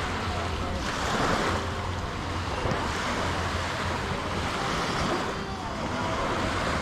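Waves washing onto a sandy beach, swelling and easing every couple of seconds, with wind rumbling on the microphone and faint voices of people on the beach.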